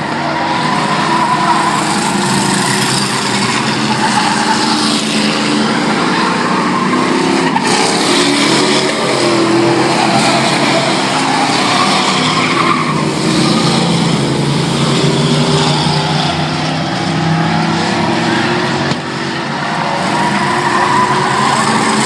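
Several race trucks' engines running hard around the track, their pitch rising and falling as they pass, over a steady rush of tyre and track noise.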